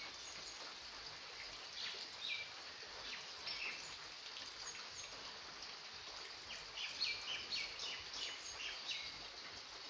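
Birds chirping: short, high calls in clusters, busiest from about six and a half to nine seconds in, over a steady faint hiss.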